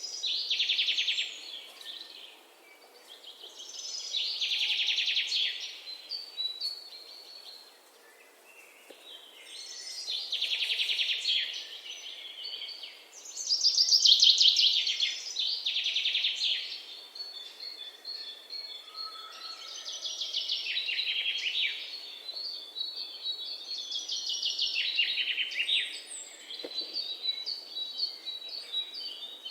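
Songbirds singing in a forest: fast trilled phrases of a second or two, repeating every few seconds. About halfway through, a thin steady high note joins in beneath them.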